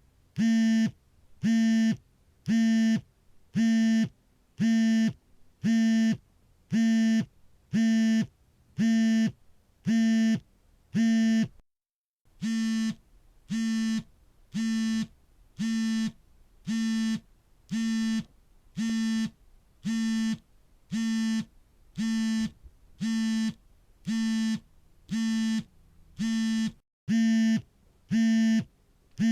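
Smartphone vibrating for an incoming call: its vibration motor buzzes in a steady series of short, evenly spaced pulses with a low buzzing tone. The pattern stops briefly about twelve seconds in and again near the end, then resumes.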